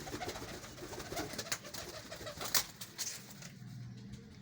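Domestic pigeons cooing: low, even coos that grow stronger in the second half, with a few sharp clicks scattered through.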